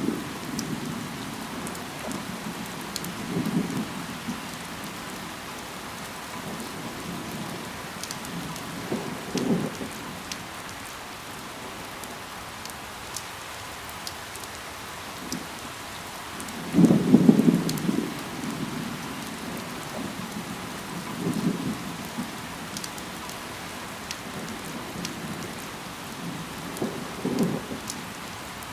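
Steady rain falling, with scattered drop ticks. A short low thud or rumble comes every few seconds, five in all, the loudest about 17 seconds in.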